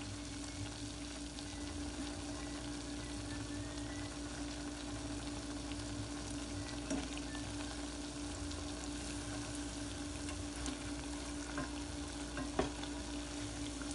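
Okra-and-egg omelets (tortang okra) sizzling as they shallow-fry in hot oil, a steady crackle over a low steady hum. The spatula clicks against the pan twice, about seven seconds in and near the end.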